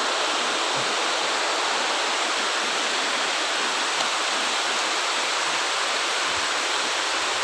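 Heavy tropical rain pouring down in a steady, unbroken hiss.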